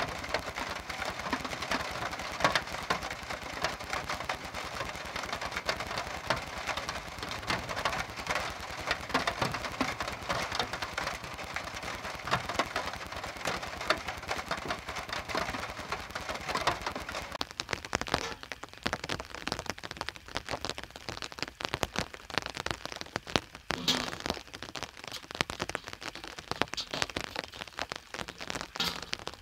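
Rain falling, a dense patter of drops; about seventeen seconds in it thins out to scattered separate drips and ticks.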